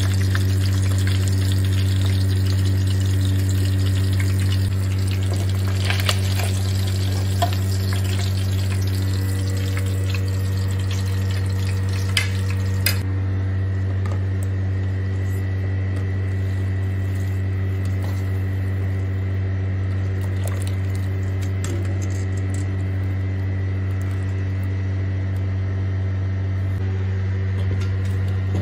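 Chicken sizzling as it fries in oil in a pan, with a few sharp clicks, giving way about 13 seconds in to the softer sound of a pot of water boiling. A steady low hum runs underneath throughout and is the loudest sound.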